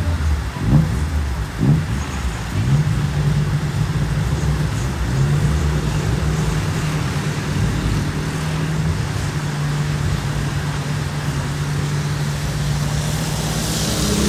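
A car engine revving in a few quick rising sweeps, then holding a steady speed, with a rising hiss near the end.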